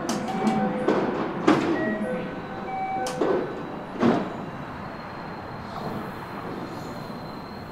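Ambience beside a commuter train standing at a station platform: a few sharp knocks and thumps in the first half, loudest about a second and a half in and again near four seconds, over a steady background. Light background music plays in the first half, then fades, leaving the quieter steady sound.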